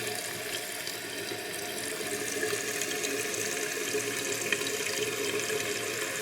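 Toilet tank refilling through a Fluidmaster fill valve: a steady rush of water at full flow, its rubber valve seal freshly replaced.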